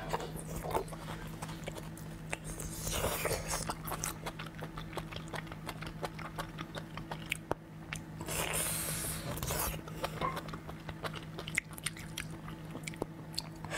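Close-miked biting and chewing of a soft, braised strip of meat, with many wet mouth clicks and two louder noisy stretches about three and eight seconds in. A steady low hum runs underneath.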